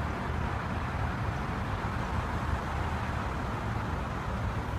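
Steady low rumble with a faint hiss of background noise, without distinct events.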